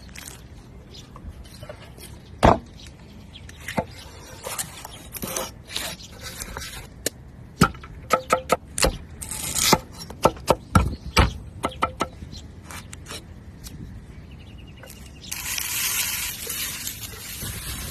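Cookware and utensils knocking and clacking in a string of sharp separate hits. About fifteen seconds in, a loud steady sizzle starts suddenly, as when food goes into hot oil.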